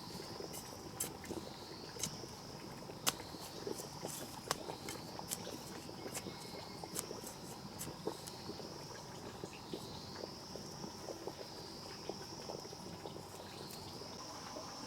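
An insect calling over and over: a high, thin buzz that rises and then holds, repeating about every two seconds. Scattered sharp clicks and taps sound through it.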